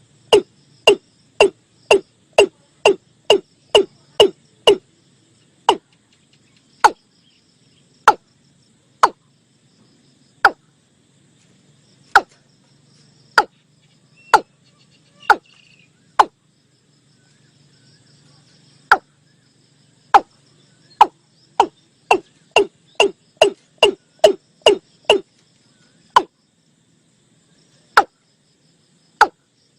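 Watercock (Gallicrex cinerea) calling: a repeated series of short, sharp, falling notes. They come about two a second at first, slow to one every second or two, quicken again in a second run, then thin out.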